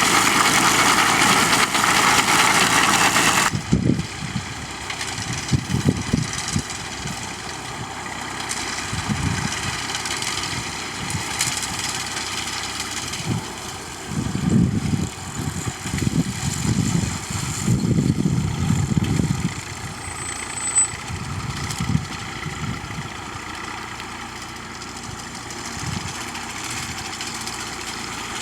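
Tractor engine running steadily while working with a binder in a wheat field, with irregular low bumps and an abrupt change in the sound about three and a half seconds in.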